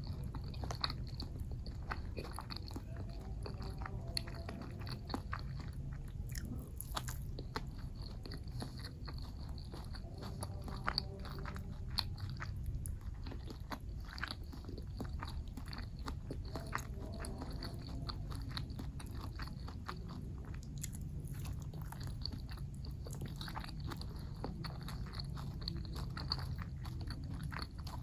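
Close-miked eating: biting and chewing, with many short crunches and mouth clicks, over a steady low hum.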